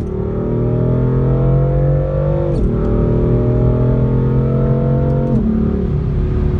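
A car engine accelerating hard, its pitch climbing through the gears with a sudden drop at each upshift, about two and a half seconds in and again after five seconds, then holding a steady note.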